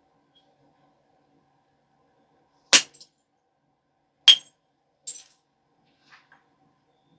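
Stone biface being knapped: two sharp clicks of strikes about a second and a half apart, followed by a few fainter clicks and ticks.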